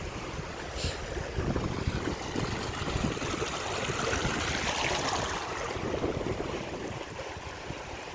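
Stream water running steadily, with wind buffeting the microphone.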